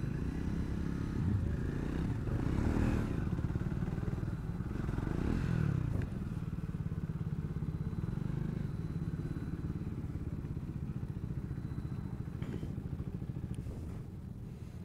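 Triumph Speed 400's single-cylinder engine running at low speed, with two brief rises and falls in engine note about two and five seconds in.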